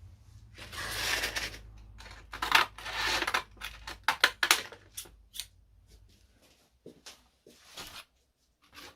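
Hand work on wood: two rubbing strokes of about a second each, then scattered small clicks and knocks as things are handled, over a low hum that fades out in the first half.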